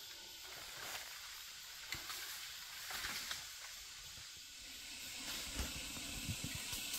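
Steady hiss of rain falling on forest foliage, with a few light knocks and some low thumps near the end.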